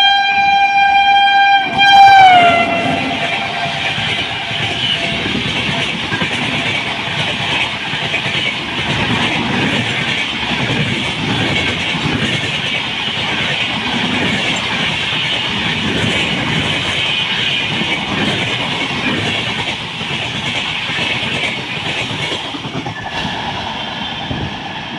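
An Indian Railways WAP-7 electric locomotive sounds its horn, and the horn drops in pitch as it passes at speed, about two seconds in. Its express coaches follow, rushing past with rail clatter for the rest of the time.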